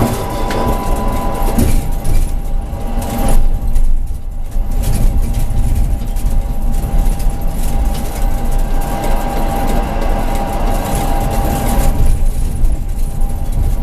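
Tram running along the track: a steady rumble of wheels on rails with a thin, steady whine, easing briefly about four seconds in.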